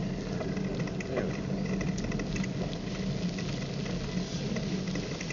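Steady low road and traffic noise, with an even hum and no single vehicle passing.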